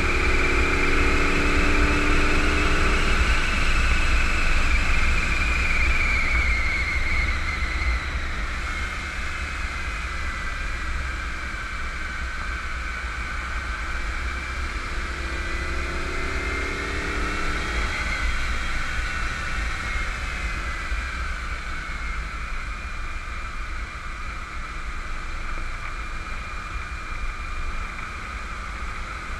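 1991 Camaro Z28 1LE's 305 TPI V8 at speed on track: the revs climb for the first few seconds and drop away by about eight seconds in, then climb again around fifteen seconds in and ease off. A steady low wind and road rumble runs underneath.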